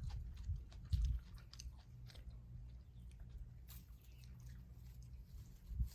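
Faint chewing and crunching of crisp food: irregular small crunches and clicks over a steady low hum.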